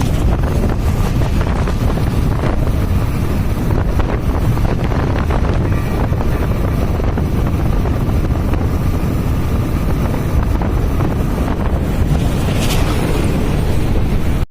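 Strong wind buffeting the microphone in a steady low rumble, with the running noise of a vehicle travelling underneath.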